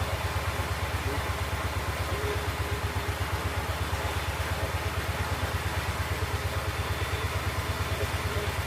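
Kohler K-series single-cylinder engine on an old garden tractor running steadily, with an even, fast putt-putt of firing pulses that neither speeds up nor slows down.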